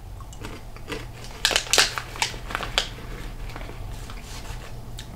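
Crunching of a person chewing a dry, seasoned cricket. There is a run of crisp crunches from about a second and a half to three seconds in, then softer chewing.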